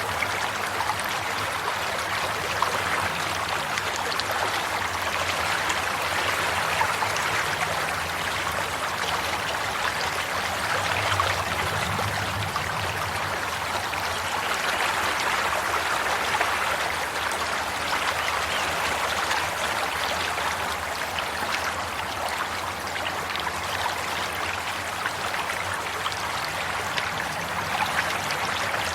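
Running water flowing and trickling steadily, like a stream or brook, a continuous splashing rush with fine bubbling detail.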